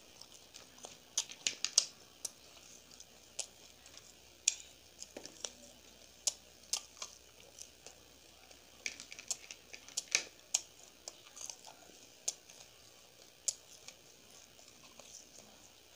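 Close-miked eating of fried gol pitha: irregular sharp mouth clicks and smacks of chewing, bunched in a few clusters with quieter gaps between.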